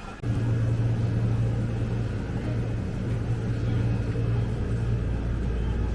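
A motor running steadily with a low, even hum, starting abruptly about a quarter second in.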